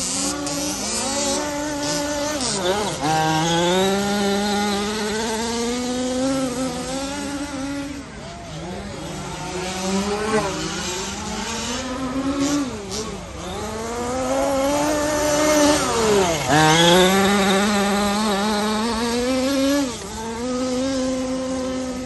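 Radio-controlled off-road cars racing around a dirt track, their motors revving up and down. The pitch drops sharply and climbs again a few times as the cars brake and accelerate out of corners.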